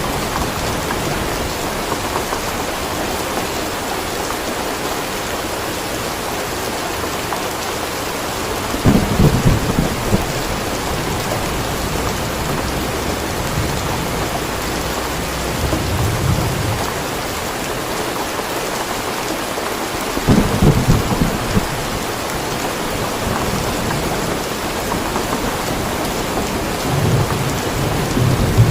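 Steady rain falling in a thunderstorm, with low rolls of thunder rumbling in about four times.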